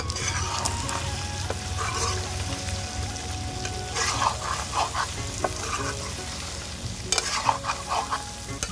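Duck curry with papaya sizzling in a black iron kadai while a metal spatula stirs it. Runs of scraping strokes against the pan come about four seconds in and again near the end.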